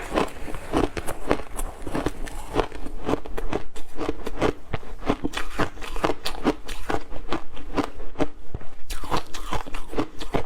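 Ice being bitten and chewed close to the microphone: a steady run of sharp, crisp crunches, about three or four a second, without a break.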